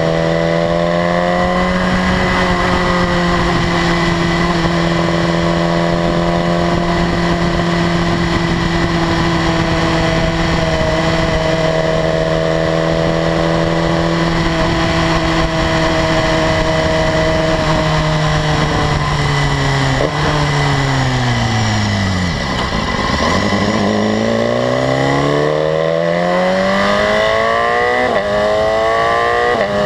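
A 2015 BMW S1000RR's inline-four engine, heard from on the bike, holds steady revs at cruising speed with wind rush. About two-thirds of the way through, the revs fall away smoothly as the bike slows, then climb steadily again as it accelerates.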